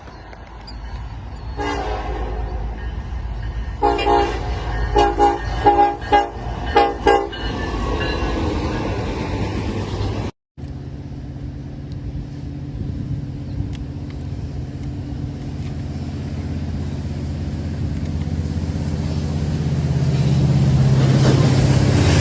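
Locomotive air horn sounding a series of chord blasts: one long blast, then several short toots, over a low train rumble. After a sudden cut, a steady low engine drone grows louder near the end.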